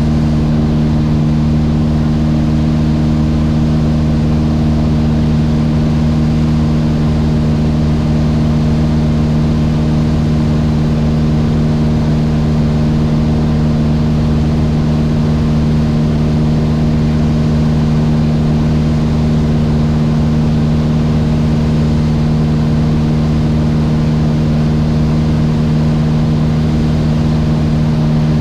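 Mooney M20J's four-cylinder Lycoming IO-360 engine and propeller droning steadily, holding one unchanging pitch.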